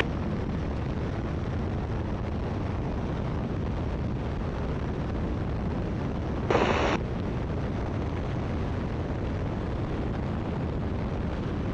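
Steady engine and wind noise in the open cockpit of a Great Lakes biplane in cruise flight. A single half-second burst about six and a half seconds in is louder than the rest.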